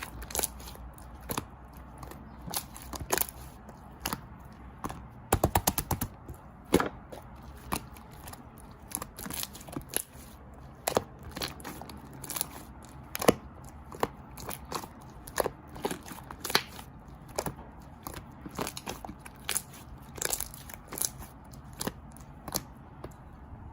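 Close-miked chewing of crisp Shine Muscat grapes: sharp crunches every second or so, with a quick run of crunches about five seconds in.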